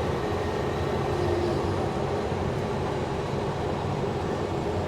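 Cummins diesel engine of a self-propelled crop sprayer running steadily, heard as a constant low drone from inside the cab.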